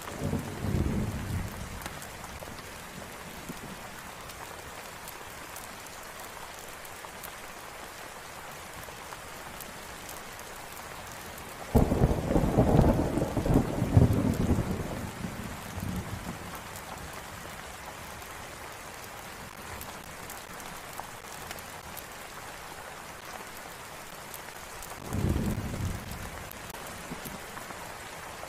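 Steady rain falling, with rolls of thunder: a short rumble at the start, a loud one that breaks suddenly about twelve seconds in and fades over a few seconds, and a softer one near the end.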